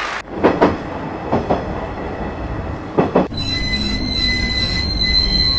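Train running on the rails: a few sharp knocks of the wheels in the first half, then about halfway a steady high-pitched squeal of the wheels sets in over a low rumble.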